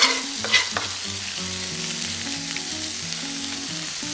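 Chicken pieces and sliced onions frying in hot olive oil in a pan, a steady sizzle, with two sharp clicks in the first second as chopped garlic is tipped in.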